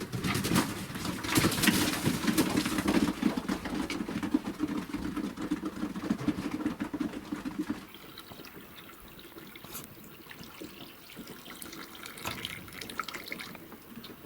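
Water running or pouring for about eight seconds, then stopping suddenly, followed by faint scattered drips and ticks.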